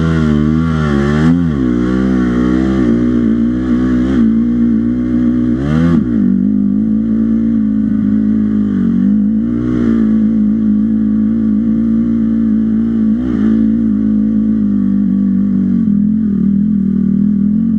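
Dirt bike engine running under way, mostly at a steady pitch. The throttle is opened and eased several times, so the pitch swings up and down in the first second or so and again about six and thirteen seconds in.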